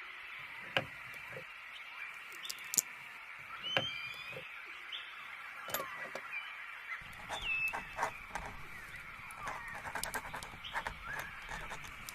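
Birds chirping, a few short bright chirps over a steady high background hum, with scattered small sharp ticks throughout.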